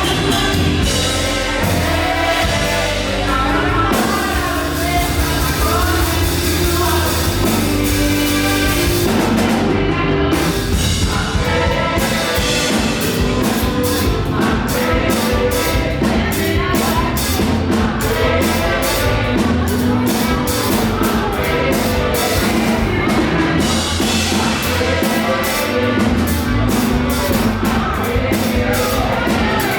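Live gospel praise music: a band with drums and bass backing singers at a fast tempo, with a quick steady beat.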